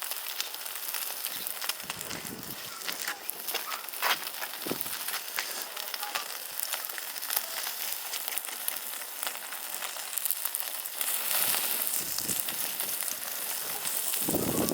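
Wood fire crackling and hissing, with many scattered sharp pops.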